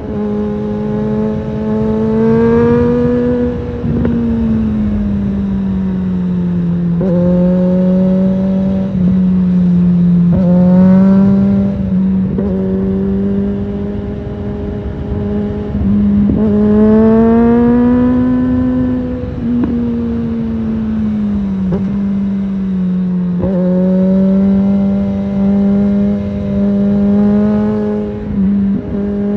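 Suzuki GSF650 Bandit's inline-four engine through a Storm aftermarket exhaust, heard from the saddle while riding. Its pitch rises and falls several times as the throttle opens and closes, with short breaks where the pitch jumps, as at gear changes.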